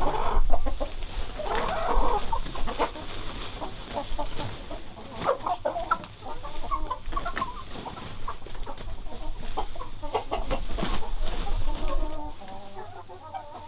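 Chickens clucking, with short, irregular calls again and again.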